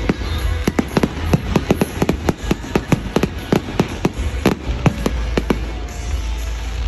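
Fireworks display: a rapid volley of sharp bangs and crackles, several a second, which thins out to a few scattered bangs after about five seconds, with music playing underneath.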